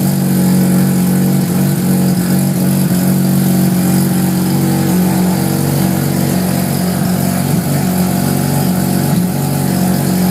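Street-ported Mazda 13B rotary engine idling steadily.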